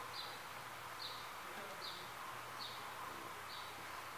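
Faint background chirping of a bird: a short high chirp, each dipping slightly in pitch, repeated about every three quarters of a second over a low steady hiss.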